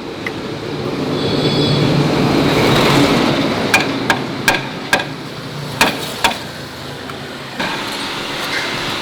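A rush of noise swells and fades, then a run of about seven sharp metal knocks at irregular half-second spacing, as from parts being struck during a gearbox repair. A steady hum sets in near the end.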